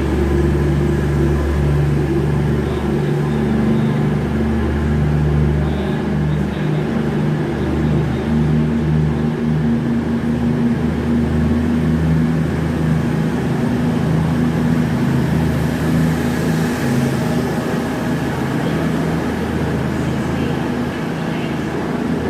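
A train standing at a station platform with its engine or traction equipment running: a steady low hum with several held low tones.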